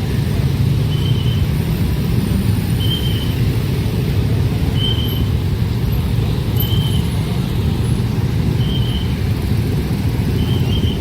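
A passing train rumbling steadily, with a short high-pitched tone repeating about every two seconds.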